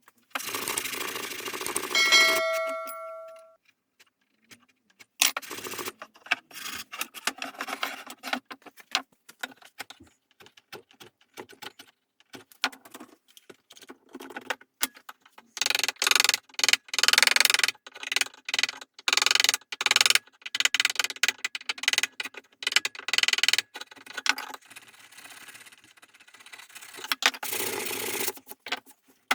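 Hand work on furniture and its hardware. About two seconds in, a metal piece rings briefly with several clear tones. After that come scattered clicks and knocks, and a run of repeated rubbing strokes in the second half.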